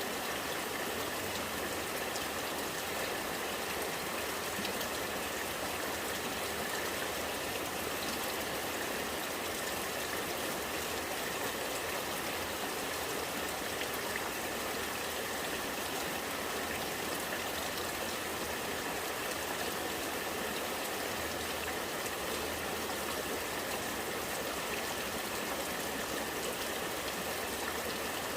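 Rainwater running and gurgling in a steady flow.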